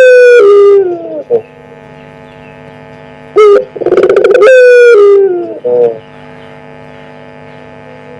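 Puter pelung dove (a domestic Barbary dove bred for a long coo) cooing loudly: each call is a short note, a rolling trill, then long falling notes, one ending about a second in and a full one a few seconds later. A steady electrical hum runs underneath.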